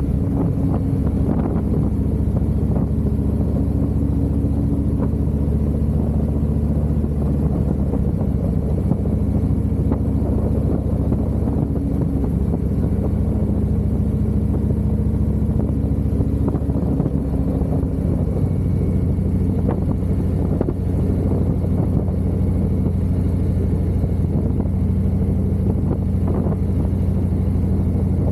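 Harley-Davidson V-twin engine running steadily while the motorcycle is ridden, its pitch shifting a few times as the speed changes.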